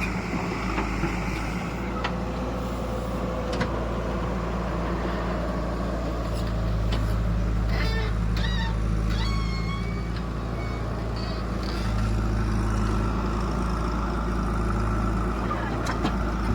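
Heavy diesel engine running steadily, growing louder under load about six seconds in and again near twelve seconds.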